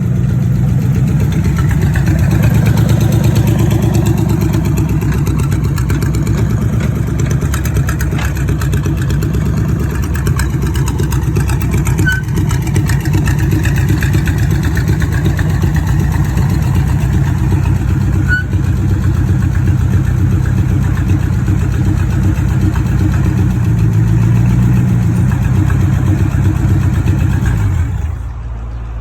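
A 1932 Ford's original engine running steadily at idle, stopping near the end.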